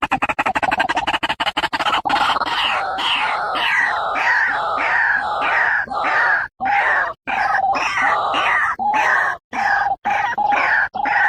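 White-breasted waterhen (ruak-ruak) calling: a fast run of rapid pulses for about two seconds, then a long series of repeated calls, roughly two a second, each sliding down in pitch, with a few brief breaks.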